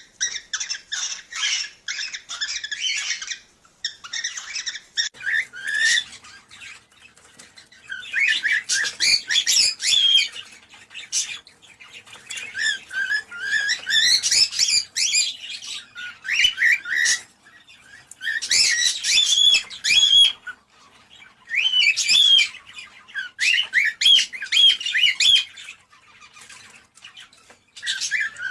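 Cockatiels chirping and warbling in bouts of a few seconds, with short pauses between them.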